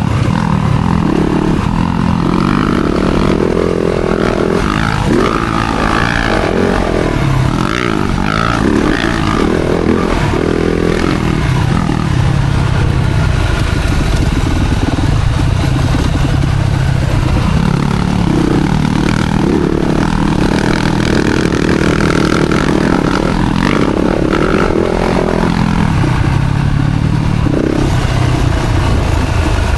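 Four-stroke single-cylinder motocross bike engine being ridden hard, revving up and down continuously through the gears.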